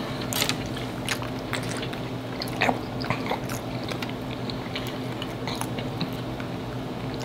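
Close-miked mouth sounds of two people eating a cheesy ground-beef hamburger helper bake with a cornbread topping: soft, wet chewing and smacking with scattered short clicks and a few crunches.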